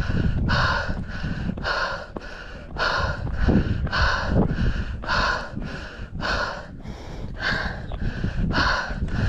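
A runner panting hard in a quick, even rhythm, about two breaths a second, from the strain of a steep uphill trail run. Wind rumbles on the microphone underneath.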